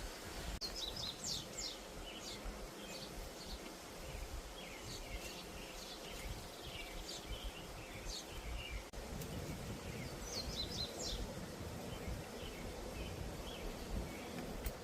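Small birds chirping in short scattered groups over a steady low background hum.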